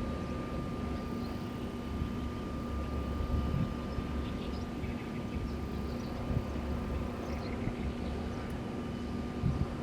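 Wind turbines turning in the wind: a steady low rumble with a constant hum and a thin high whine, and low gusts of wind buffeting the microphone.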